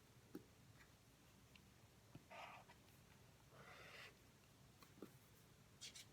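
Near silence in a quiet room: faint scattered taps and two short scratching strokes of a pen writing on paper.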